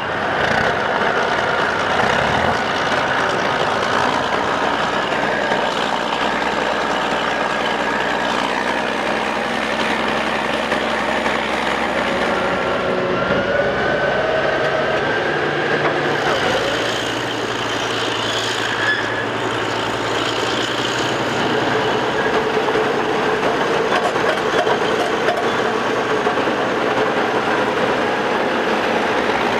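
Caterpillar crawler bulldozer running, its diesel engine and running gear making a loud, steady mechanical din, with the engine note shifting partway through.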